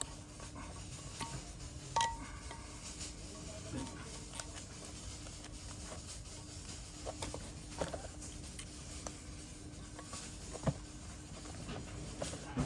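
Occasional light metal clinks and taps of tools and engine parts being handled, the sharpest about two seconds in with a short ring, over a faint steady hum.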